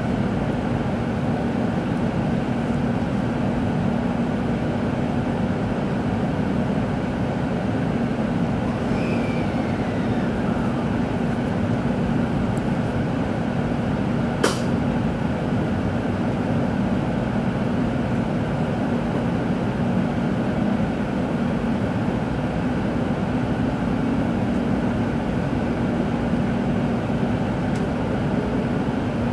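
Steady interior noise of a Tōkaidō Shinkansen train: an even rumble with a constant low hum. A single sharp click comes about halfway through.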